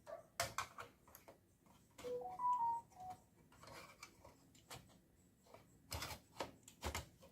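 Scattered clicks and knocks of a hard drive and its L-shaped bracket being handled and fitted into a desktop PC's drive cage, with louder clicks about six and seven seconds in. A few brief tones stepping up and down in pitch come about two seconds in.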